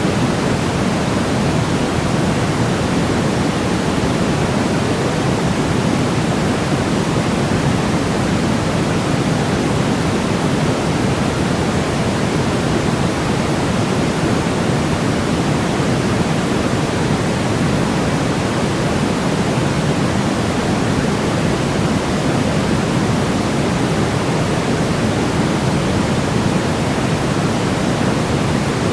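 Steady, unbroken synthetic white noise for baby sleep: an even rushing hiss that never changes, weighted toward the low end so it sounds deeper and softer than pure white noise.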